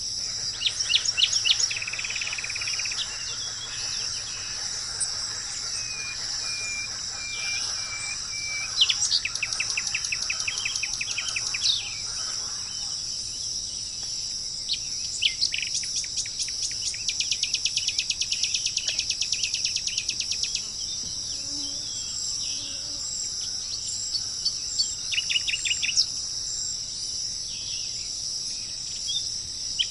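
Wild birds singing, with several rapid trilled phrases about a second or more long, the longest a fast trill of several seconds near the middle, over a steady high insect chorus.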